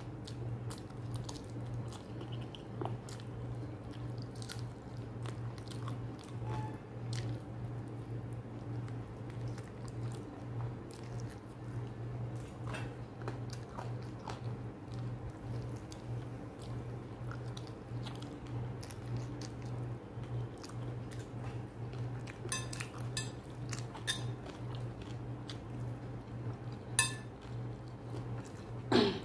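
Close-up mouth sounds of chewing rice and chicken curry eaten by hand, with many small wet clicks. A few sharper clicks near the end, over a steady low hum.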